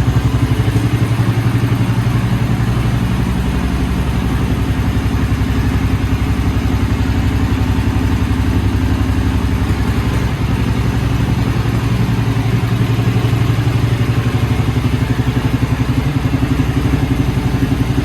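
Honda CB400SS single-cylinder engine idling steadily through a W650 Capton-style muffler, a loud, even pulsing exhaust note.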